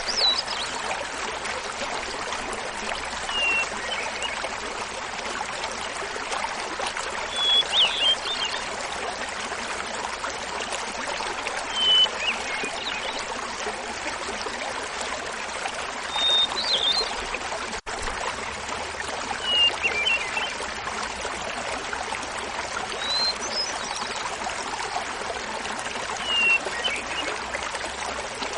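Small mountain waterfall splashing steadily, with a hermit thrush singing short flute-like phrases about every four seconds. Each phrase opens on a held note and breaks into a quick fluttering run.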